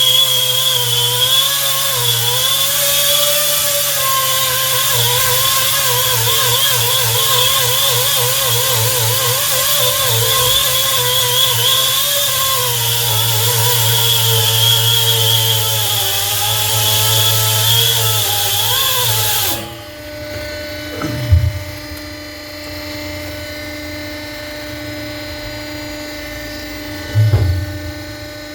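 A power tool runs loud and steady for about twenty seconds, its pitch wavering as it is loaded, then cuts off suddenly. A quieter low hum follows, with two short knocks.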